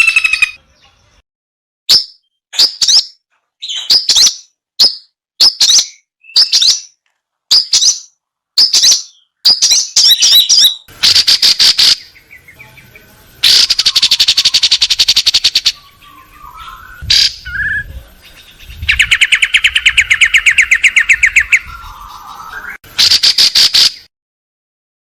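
Songbird calls: a run of short, sharp, high chirps about one every 0.7 seconds, then fast rattling trills, one near the middle and a lower one later, each starting and stopping abruptly.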